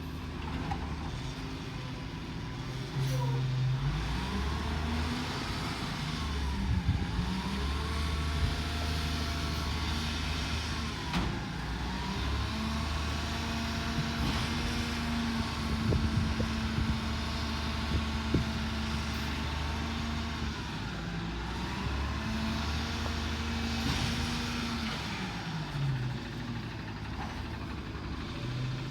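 Garbage truck engine revving up and holding several times, then dropping back to idle, as it works its hydraulics on a recycling route. A few sharp knocks and clanks come over the engine.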